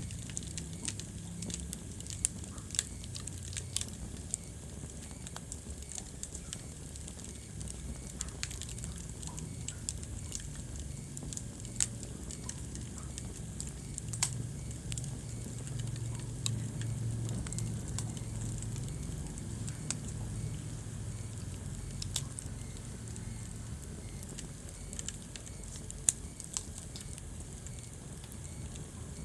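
Wood fire burning in a fireplace, crackling steadily with irregular sharp pops, a few of them louder, over a low steady rumble.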